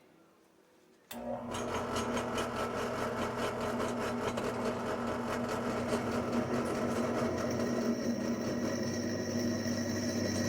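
Drill press switched on about a second in, its motor running steadily with a fast, even rhythmic whir as a machine drill bit starts into 3/8-inch-thick metal plate.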